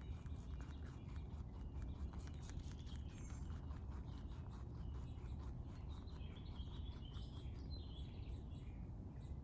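A rabbit chewing close to the microphone, a quick run of small crunches. Birds chirp in the background from about six seconds in, over a low steady rumble.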